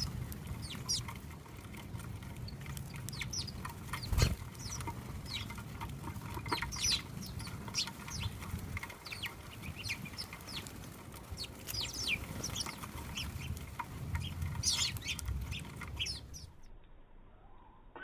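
Small backyard birds chirping, with many short, high calls in quick succession and a sharp knock about four seconds in. A low rumble runs underneath until the sound cuts away near the end.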